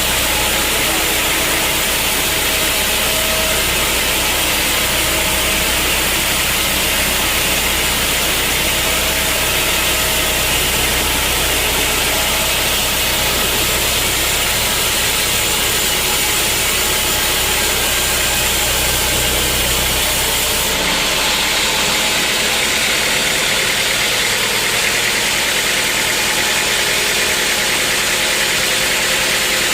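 Sawmill machinery running steadily: a loud engine-driven hum with a hissing, grinding sawing noise on top. About two-thirds of the way through, the low hum falls away and the sound turns thinner and higher.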